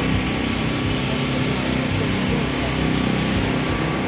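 An engine running steadily, an even drone with no revving.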